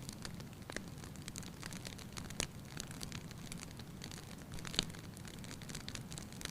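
Wood fire in a fireplace crackling, with a few sharper pops over a steady low rumble.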